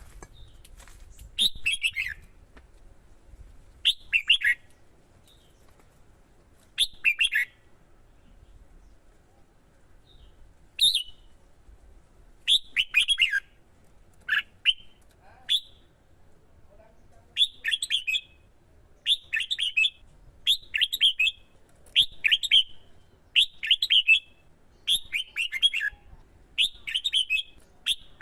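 Red-whiskered bulbul singing short, quick warbled phrases, a few seconds apart at first and then about every second and a half from the middle on: the bulbul's competitive fighting song.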